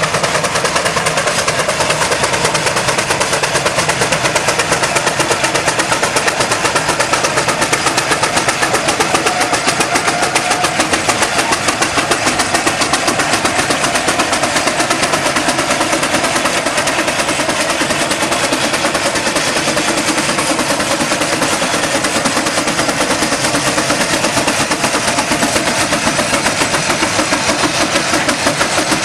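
1875 Fowler steam engine working under load, a fast, steady run of exhaust beats over a constant hiss.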